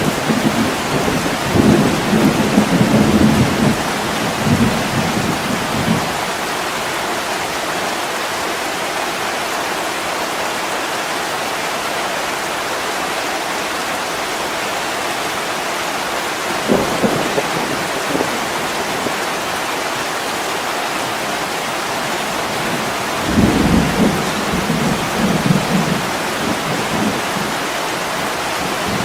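Heavy rain falling steadily on a window, with low rolls of thunder during the first six seconds, a short one about seventeen seconds in, and another longer roll near the end.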